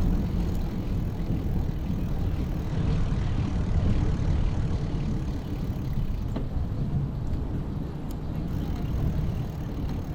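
Steady low rumble of traffic and road noise heard from a bicycle riding through city streets, with a few faint ticks.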